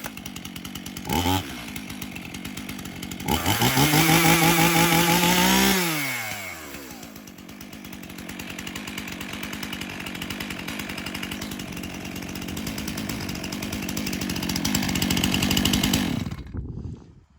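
Stihl MS291 two-stroke chainsaw idling, blipped briefly about a second in, then revved to full throttle for a couple of seconds and let back down to idle. It idles steadily for about ten seconds and is switched off near the end.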